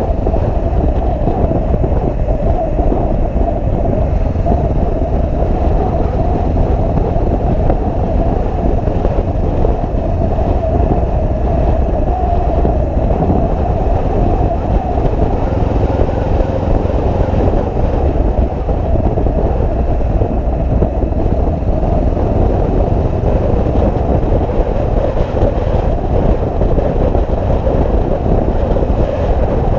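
Motorcycle riding at a steady pace: a constant, unbroken engine and road noise with no change in speed.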